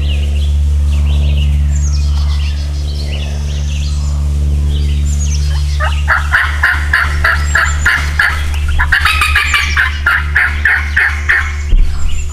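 Wild turkeys gobbling: a long run of rapid, evenly repeated notes through the second half. Small birds chirp early on, over a steady low hum.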